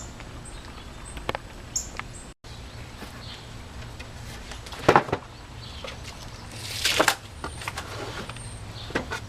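Workshop handling sounds: scattered clicks and knocks, one louder knock about five seconds in and a brief scrape about seven seconds in, over a low steady hum.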